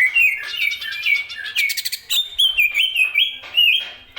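Green leafbird (cucak ijo) singing a fast, varied song of whistled notes and chirps that slide up and down, with a quick rattling trill about one and a half seconds in.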